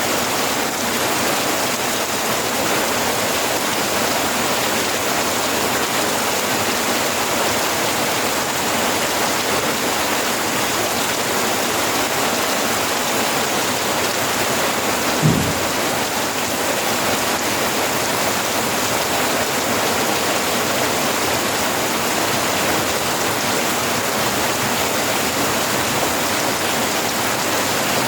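Steady rain falling, an even continuous hiss of drops. About halfway through there is one brief low thump.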